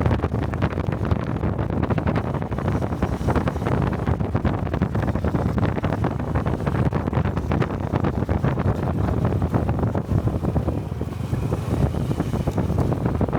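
Honda 125 cc single-cylinder Cub motorcycle engine and exhaust running steadily while riding, with wind buffeting the microphone.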